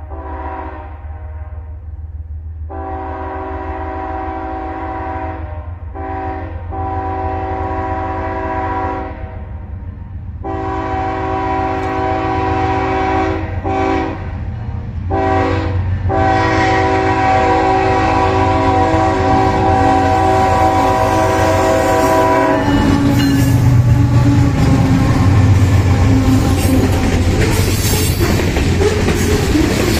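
Diesel freight locomotive sounding its air horn in repeated blasts as it approaches a level crossing, with the low rumble of its engine underneath; the last blast is held until about 22 seconds in. Then the horn stops and the loud rattle and clickety-clack of freight cars rolling past close by takes over.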